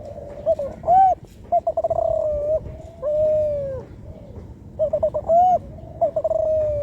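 Young spotted dove (tekukur) cooing, a four-month-old bird still learning to shape its call. Two phrases, each a few short notes, a quick stuttering run, then a long falling coo.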